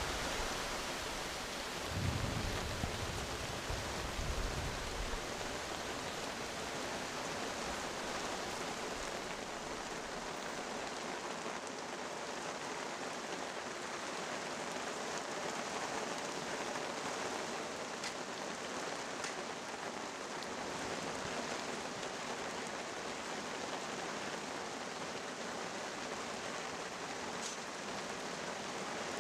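Steady rain falling, an even hiss of drops, with a few low thumps in the first few seconds.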